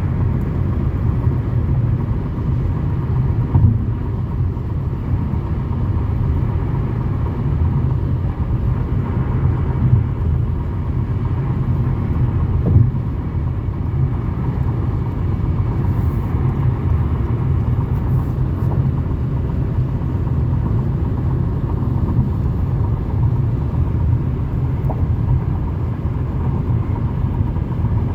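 Steady low road and engine rumble inside a Toyota Camry's cabin while driving, with a few brief knocks.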